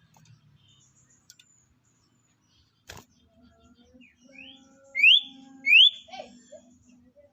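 Sirtu (common iora) whistling: three quick rising notes a little after the middle, the last two loud, after a single sharp click about three seconds in.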